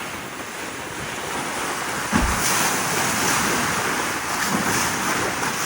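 Wind buffeting the microphone over the rush of water around a sailboat, swelling louder about two seconds in, with one low thump at that point.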